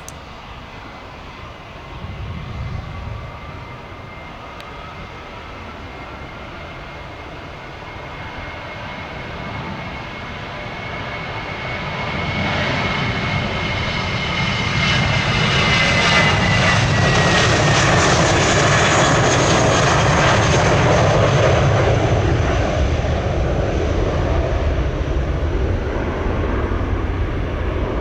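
Jet airliner engines growing louder as the aircraft approaches and passes, then a deep rumble. The high engine whine drops in pitch as it goes by, about halfway through.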